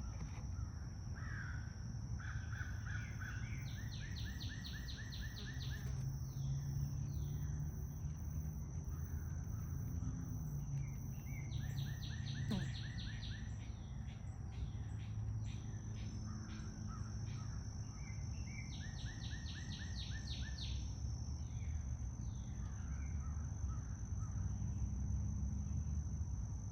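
A bird calling outdoors in three runs of rapid, harsh notes, over a steady high-pitched tone and a low rumble.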